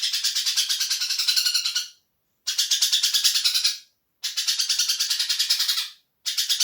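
Leafbird (hijauan) singing in rapid, evenly pulsed high trills. The trills come as four phrases of one to two seconds each, broken by short pauses.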